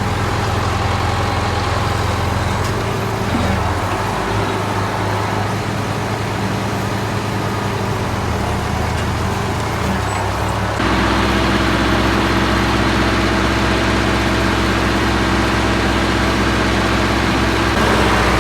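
Large engine running steadily at idle. About eleven seconds in the sound changes abruptly to a louder, steadier running note.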